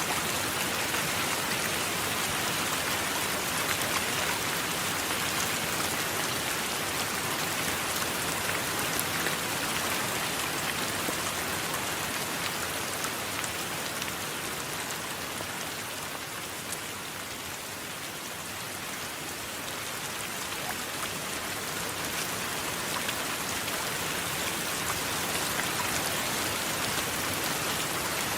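Steady, dense rainfall with individual drops ticking through the hiss. It eases slightly about halfway through, then builds back.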